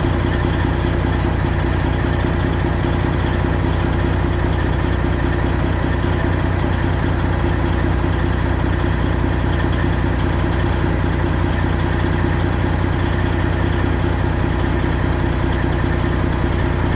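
Straight-piped Freightliner Classic XL semi truck with a Detroit Diesel 12.7 engine, idling steadily.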